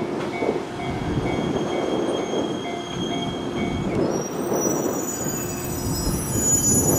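Shinano Railway 115 series electric train running on the track with a steady rumble. From about four seconds in, high wheel squeal comes in as several thin ringing tones. A faint high tone repeats evenly until about four seconds in.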